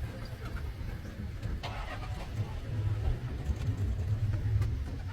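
A vehicle engine running at low revs, a steady low rumble.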